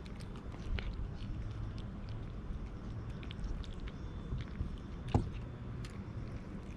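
Cats chewing and crunching food with many small clicks over a steady low background rumble. A sharper click comes about five seconds in.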